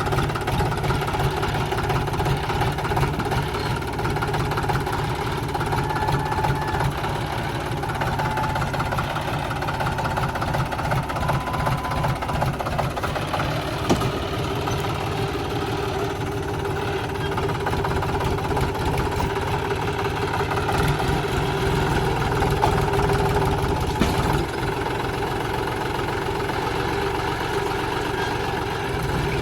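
Diesel engine of farm harvesting machinery running steadily with a heavy low rumble.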